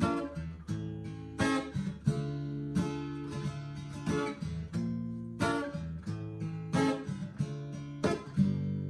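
Acoustic guitar playing the instrumental introduction of a ballad: chords strummed in a steady, even rhythm of repeated strokes.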